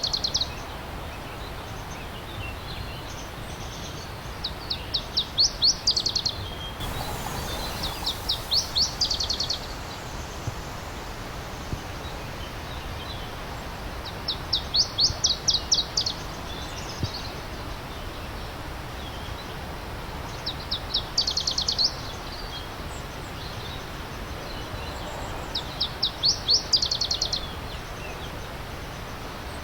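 A songbird repeating a short, fast trilled phrase of high notes, about every five seconds, over the steady rush of a flowing stream.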